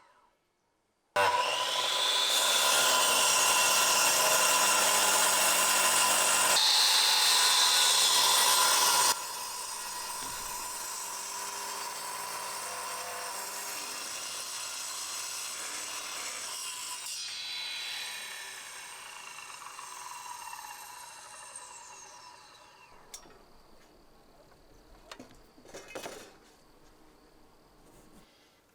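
Electric power saw cutting through branch wood: the motor and blade run loud and hard for several seconds, then drop to a quieter run and wind down with a falling whine. A few knocks follow near the end.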